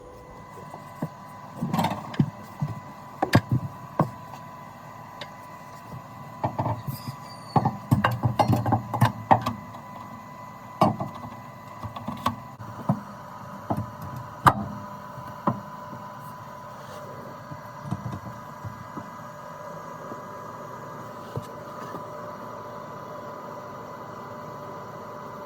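Irregular metallic knocks and clunks from car parts being handled and fitted, most of them in the first half, over a steady background hum.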